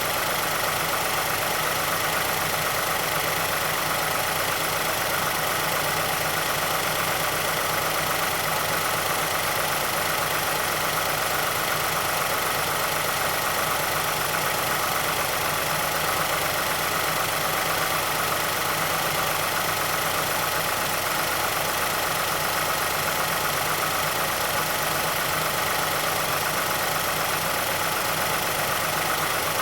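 2006 Mazdaspeed6's turbocharged 2.3-litre DISI four-cylinder idling steadily.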